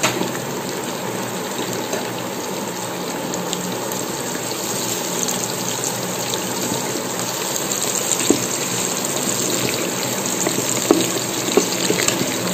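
Mint leaves and whole spices sizzling in hot oil in an electric rice cooker pot, stirred with a wooden spatula that knocks against the pot a few times in the second half.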